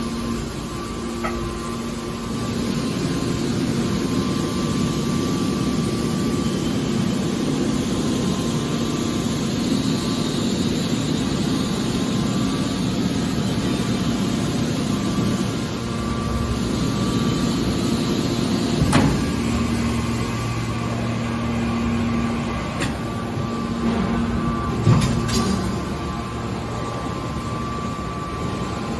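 Hydraulic scrap-metal baler running: a steady machine hum with a held drone, with two sharp metallic knocks, one about two-thirds of the way through and one near the end.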